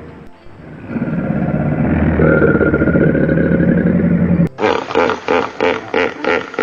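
An animal's steady low rumbling call, then a sudden cut, about 4.5 s in, to another animal's short calls repeated two or three times a second.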